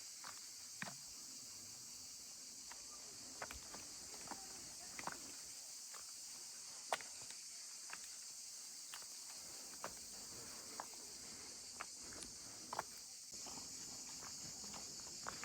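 Steady high-pitched chorus of insects, crickets or cicadas, a little louder near the end, with footsteps clicking along at about one a second.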